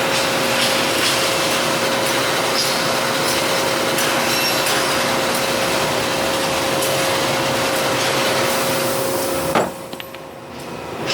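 A machine running steadily with a constant hum over a noisy whir. Near the end it stops with a sharp knock, goes quiet for about a second, then starts building up again.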